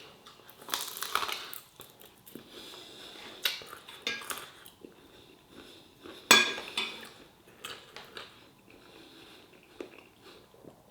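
Cutlery clinking and scraping on a plate in short irregular bursts, with one sharp clink about six seconds in.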